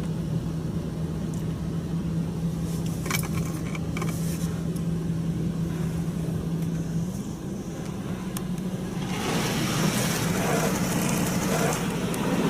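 Inside a car in a PDQ LaserWash 360 touchless car wash: a steady low hum with a few brief clicks, then about nine seconds in a louder, even hiss of high-pressure water spraying over the car.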